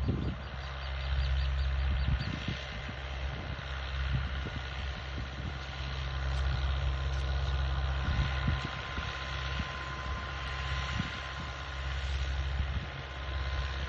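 Mahindra tractor's diesel engine running steadily, a low, even drone.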